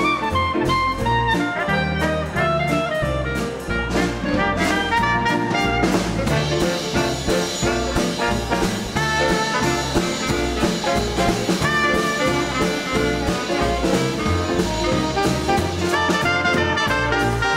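Live 1930s–40s style dance orchestra playing an instrumental passage: trumpets and trombones with saxophones over a steady bass line and drums.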